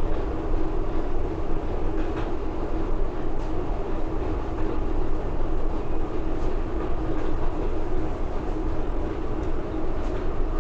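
Steady mechanical hum and low rumble with a held tone, and a few faint clicks.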